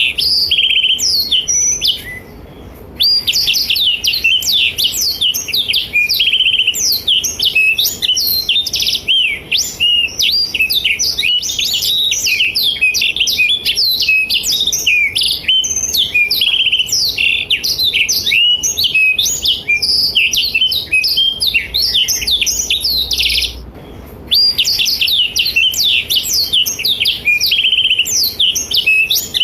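Blackthroat (black-throated canary) singing a long, fast, unbroken run of high chirps, trills and quick up-and-down sweeps, pausing briefly about two seconds in and again about twenty-four seconds in.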